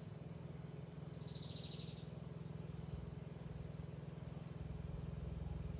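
A bird gives one falling call about a second in and a brief short chirp later, over a steady low hum.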